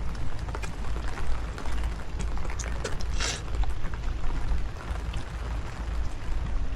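Rain pattering in many small ticks, with wind buffeting the microphone in a low rumble. There is a short, louder hiss about three seconds in.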